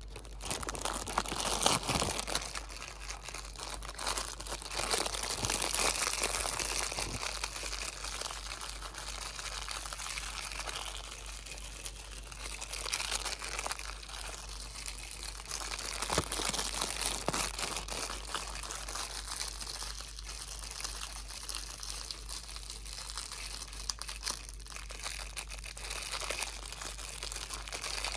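Close-up crinkling of plastic or foil packaging handled continuously, a dense crackling that swells louder and softer in waves, with occasional sharper crackles.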